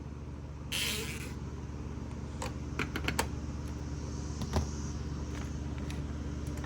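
Husqvarna 240 chainsaw cap being loosened with a scrench: a short scrape about a second in, then several light clicks and taps of tool on plastic, over a steady low hum.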